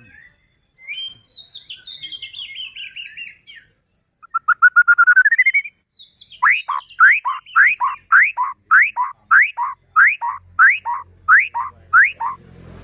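White-rumped shama singing in full song. It starts with a quick run of falling notes, then a fast rattling trill that rises in pitch. It ends with a long series of about eleven sharp upslurred whistles, close to two a second.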